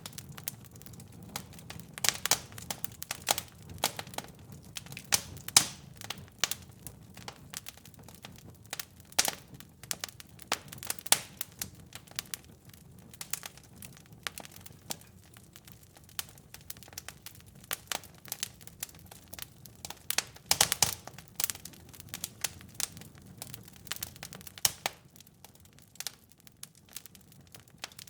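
Wood fire crackling and popping: irregular sharp snaps over a low steady rumble, the snaps growing sparser near the end.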